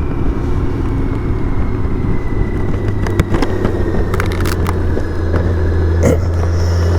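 BMW K1600 GTL's inline-six engine running steadily under way, with wind and road noise. The engine note grows stronger about five seconds in, and there are a few sharp clicks near the middle.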